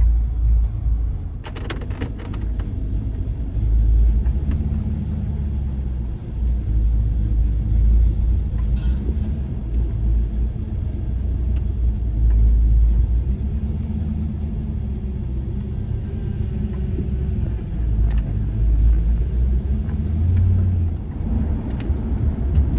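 Ford Mustang 5.0 V8 engine running as the car drives, heard from inside the cabin: a low rumble that swells and eases as the car pulls and lets off. A few sharp clicks come about two seconds in.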